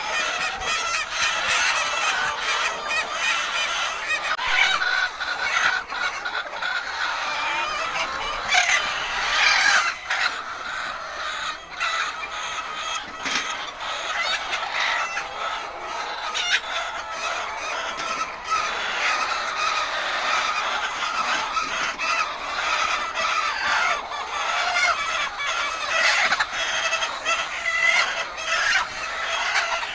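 A flock of chickens clucking and squawking without a break, with many short clicks and knocks among the calls.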